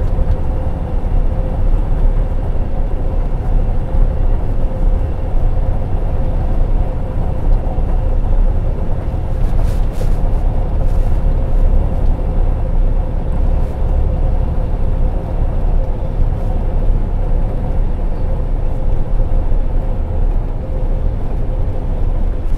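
Semi truck running, a steady low rumble with a constant hum.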